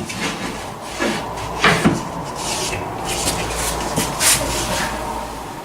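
Wood scraping and rubbing against wood in several irregular strokes.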